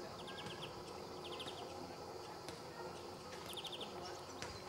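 European greenfinch giving three short, rapid trills of about five quick notes each, spaced irregularly over a steady background hiss.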